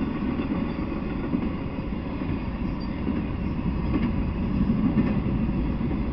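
Intermodal freight train of truck trailers and containers on flatcars rolling past, a steady rumble of wheels on the rails.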